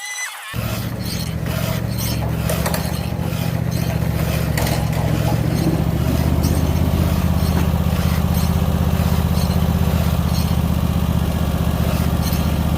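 An engine running steadily, growing somewhat louder over the first few seconds and then holding.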